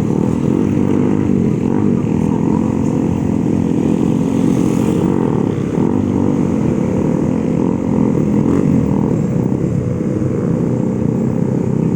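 Motorcycle engines running steadily, their pitch drifting up and down a little.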